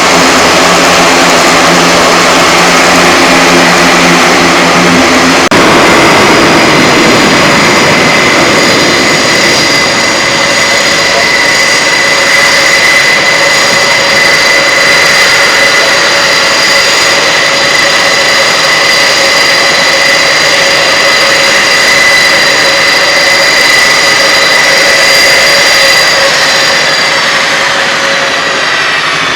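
Engines of a large four-engine turboprop military transport running loud and close. A low propeller hum gives way about five seconds in to a steady high turbine whine over a rushing hiss. The whine's tones shift and fade near the end.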